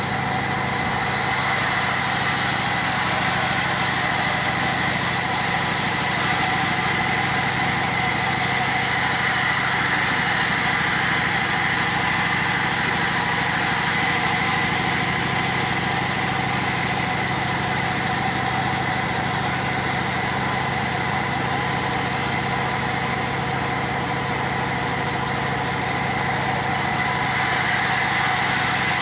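A machine running steadily with a constant high whine and an even hum, without change in speed or load.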